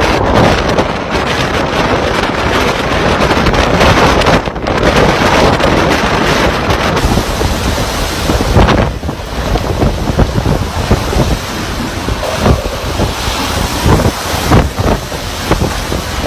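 Strong typhoon wind with rain, its gusts buffeting the microphone in uneven swells.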